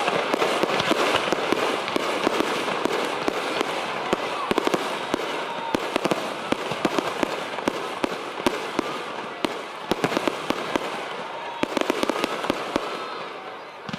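Aerial fireworks going off in a dense barrage of rapid crackling and popping, dying down near the end.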